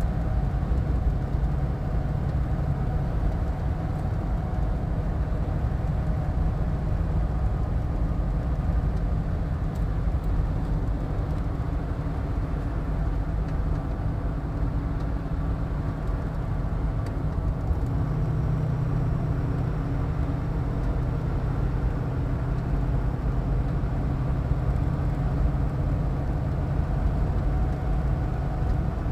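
Motor vehicle running steadily: a continuous low rumble of engine and road noise, a little stronger from just past the middle.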